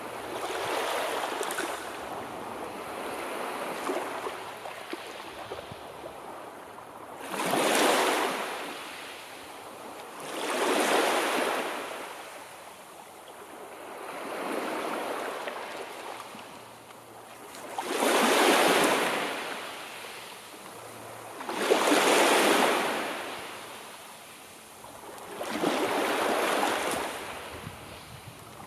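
Sea waves breaking and washing in, a rushing surge swelling and fading every three to four seconds.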